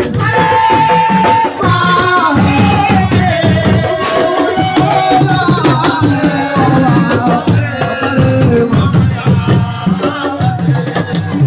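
Live assiko band music: dense, continuous percussion with a sliding melody line over it.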